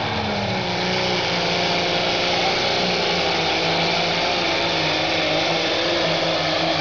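John Deere pulling tractor's engine running hard at high revs under load during a pull. The sound is loud and continuous, with its pitch dropping a little about a second in and then holding steady.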